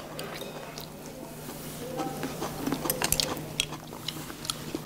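People chewing food at the table, with light clicks of chopsticks and dishes, thickest about three seconds in.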